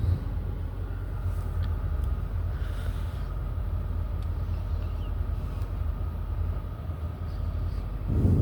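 An automatic car wash's air dryers blowing on the car, heard from inside the cabin as a steady low rumble with a faint fan whine. It swells louder just before the end, then drops away.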